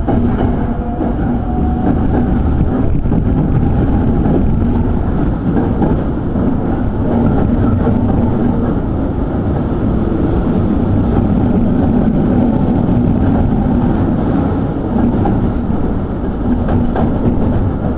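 Electric commuter train, tagged as a Sanyo 5000 series, running along the line, heard from inside the car. There is a steady rumble of wheels and running gear, and a motor whine that rises slowly in pitch over the first few seconds as the train picks up speed.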